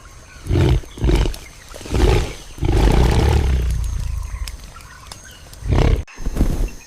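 A large animal roaring: several short, deep roars and one longer roar in the middle.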